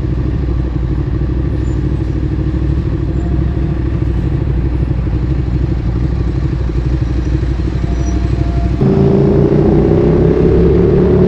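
Ducati Streetfighter 848's L-twin engine through a Termignoni exhaust, idling steadily, then about nine seconds in pulling away with a louder note that rises slowly.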